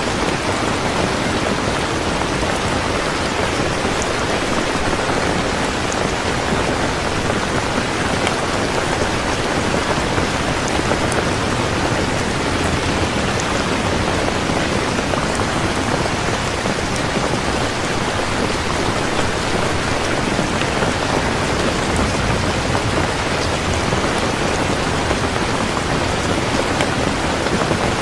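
Heavy rain falling steadily: a constant, even rush of rain with scattered drop ticks.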